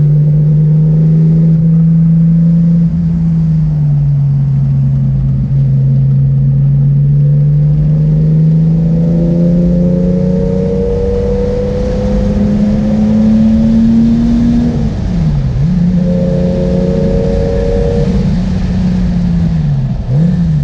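Car engine and exhaust heard from inside the cabin while driving on track: a steady engine note that drops in pitch about four seconds in, then climbs slowly as the car accelerates, falls sharply about fifteen seconds in, and dips briefly and recovers near the end.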